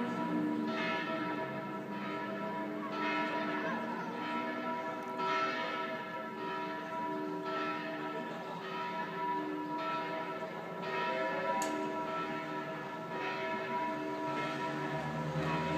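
Church bells ringing, with strokes about once a second over a steady hum of overlapping bell tones.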